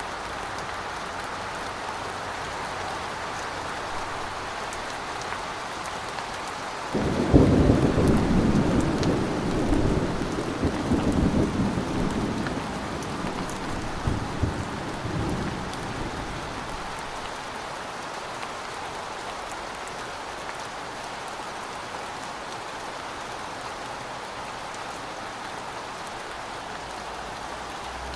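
Steady rain falling. About seven seconds in, a sudden clap of thunder breaks out and rumbles on in several swells for about nine seconds before fading back under the rain.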